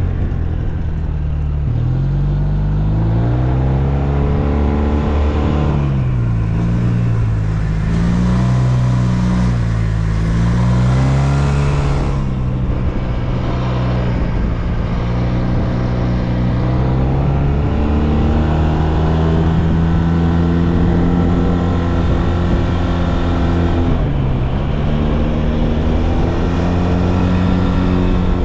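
SYM Maxsym TL 508 maxi-scooter's parallel-twin engine under way, its pitch climbing, dropping and holding as the throttle is opened and eased, with a clear dip about 24 seconds in before it rises again.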